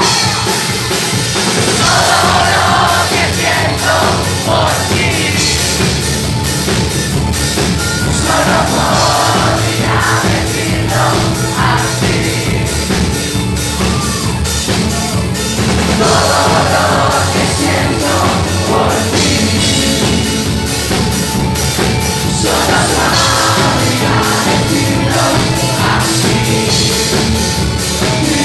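Live band playing a rock-pop song with a singer and drum kit.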